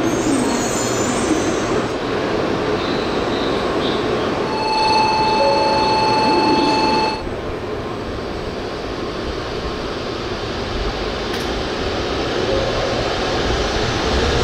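Steady noise of an N700S Shinkansen standing at the station platform. About five seconds in, a steady electronic tone of several pitches sounds for about two and a half seconds, and a faint rising whine begins near the end.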